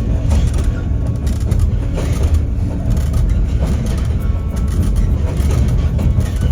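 White Pass tour train running along the track: a steady low rumble with irregular clattering from the wheels and cars.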